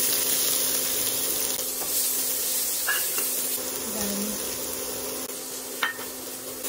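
Chopped red onion and minced garlic sizzling in hot oil in a nonstick wok, loudest as the onion first hits the oil. A steady low hum runs underneath, and there is a sharp clack near the end.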